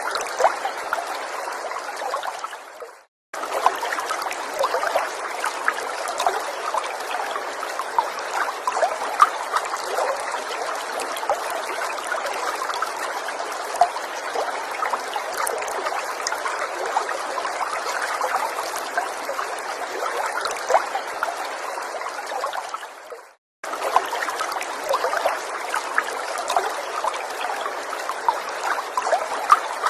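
A small forest stream trickling and burbling steadily, with many small splashes. The sound fades and cuts out for an instant twice, about three seconds in and again about twenty-three seconds in, then resumes at once.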